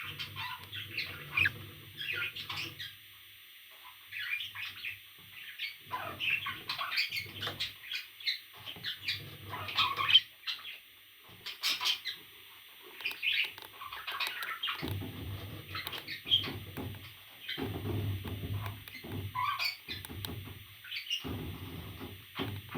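A parrot chirping and squawking in a quick run of short calls, with a low hum that comes and goes underneath.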